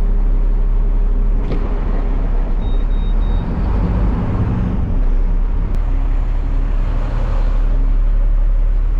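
Front-loader garbage truck's diesel engine running steadily, heard from inside the cab, its note shifting for a couple of seconds around the middle.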